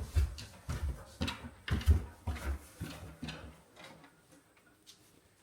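Footsteps and knocks, about ten irregular thumps over three and a half seconds, then they stop.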